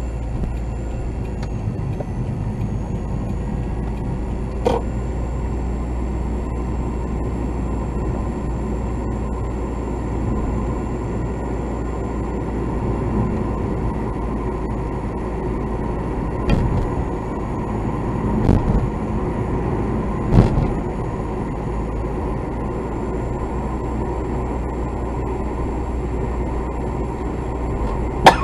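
A machine running steadily with a low hum, broken by a few sharp knocks: one about five seconds in, three spaced a couple of seconds apart past the halfway mark, and the loudest near the end. The knocks are the abnormal noise being recorded.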